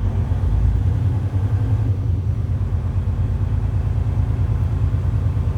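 Tractor-trailer truck's diesel engine idling: a steady low rumble with a fast, even pulse.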